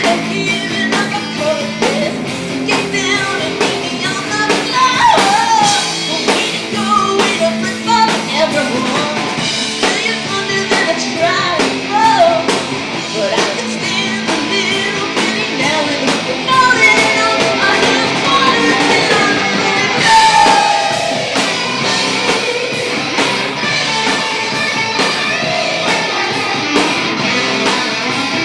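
Live rock band playing, with electric guitar and drum kit, and a woman singing lead vocals over them.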